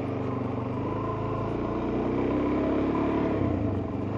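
Suzuki DR-Z400S single-cylinder four-stroke engine running while riding. Its note climbs a little past the middle and eases off near the end.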